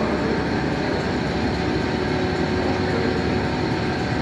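Steady machinery drone with a few constant hum tones running underneath, unchanging throughout.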